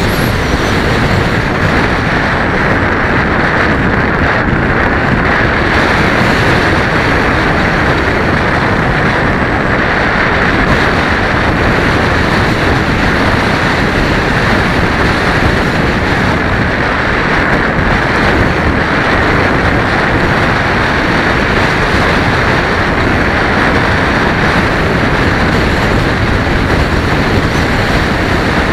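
Steady, loud wind rush and buffeting on the microphone of a camera carried on a Bixler 1.1 FPV foam plane flying in strong wind.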